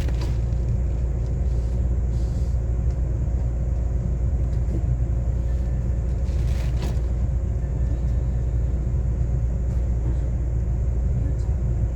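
Steady low hum and rumble inside the cab of a JR West 125 series electric railcar, with faint steady tones and no rising motor whine. A short hiss comes about seven seconds in.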